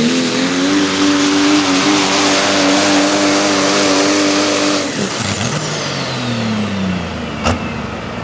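Diesel 4x4 pulling truck's engine running flat out under load, its pitch wavering slightly. About five seconds in the throttle shuts off and the revs and a high whine fall away.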